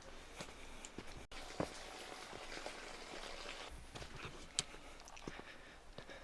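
Quiet outdoor ambience: a steady hiss with scattered light taps and clicks, one sharper click about four and a half seconds in.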